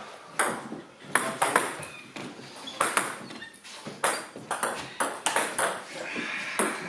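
A ball struck back and forth in a racket-sport rally: about a dozen sharp, cracking hits at uneven intervals, often in quick pairs, with faint shoe squeaks between them.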